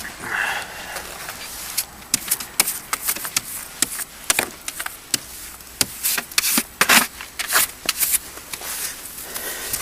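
Snow being swept off a car: a run of irregular, quick brushing and scraping strokes, some sharp, with uneven gaps between them.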